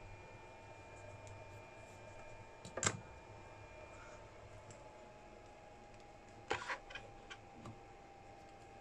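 A few small clicks and taps from handling tools and parts at a workbench: one sharp click about three seconds in, then a quick cluster of clicks near the end, over a faint steady high whine.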